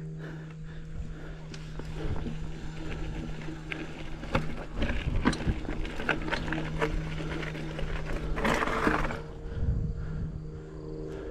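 Mountain bike clattering over rough, rocky trail: a run of sharp knocks and rattles, with a short scraping hiss about eight and a half seconds in, over a steady low hum.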